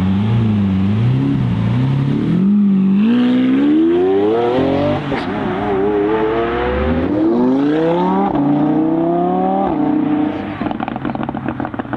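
Sports car engine pulling hard from low revs, its pitch climbing, dropping at two gear changes and climbing again, then lifting off with a rapid crackle of exhaust pops near the end.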